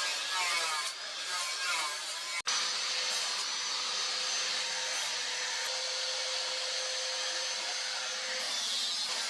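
An electric power tool, such as a grinder used in working the blade, with an uneven working sound at first. After an abrupt cut about two and a half seconds in, it runs steadily with a faint constant whine.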